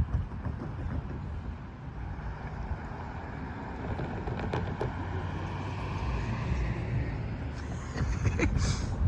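Low, steady vehicle rumble, with a few faint clicks in the middle and a short hiss near the end.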